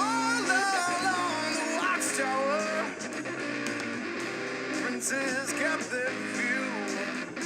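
Live band playing a rock song: a lead electric guitar solo with bent, gliding notes over strummed rhythm guitar and drums.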